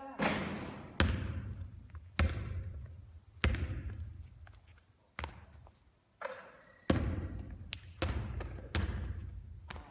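A basketball bouncing hard, about one bounce a second, each hit echoing and fading out.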